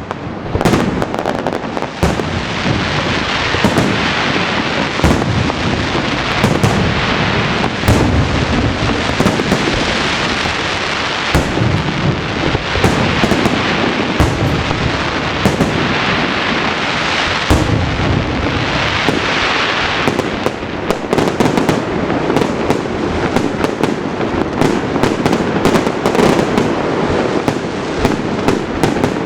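Fireworks display going off without a break: many bangs and crackling shell bursts overlapping one another.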